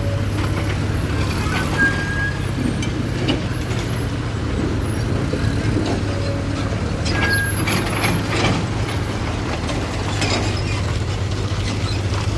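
Heavy diesel machinery running steadily, with scattered knocks and clanks.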